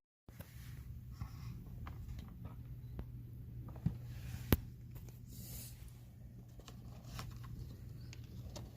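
Scattered small clicks and taps of hand tools and metal parts being handled during work on a car's underside, with one sharp click about four and a half seconds in, over a steady low hum.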